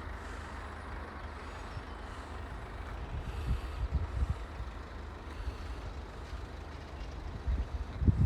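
Scania hook-lift truck's diesel engine running, a steady low rumble, with a few louder low thumps around the middle.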